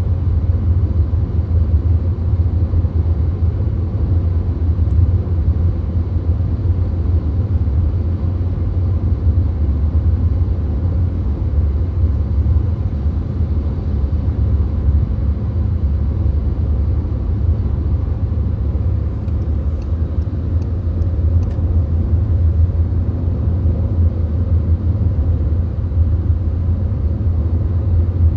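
VW Golf at highway speed, heard from inside the cabin: a steady deep road and engine rumble with tyre and wind noise above it. A few faint ticks sound about twenty seconds in.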